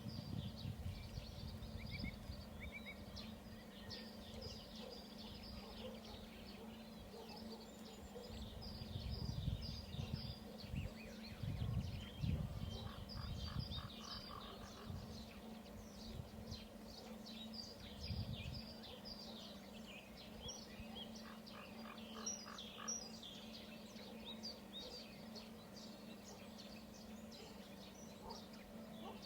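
Small birds chirping and singing in many short, overlapping notes, with a steady low hum behind them. Twice, around a third and three-quarters of the way through, a run of rapid repeated notes lasts about a second. Low rumbles come and go in the first two-thirds.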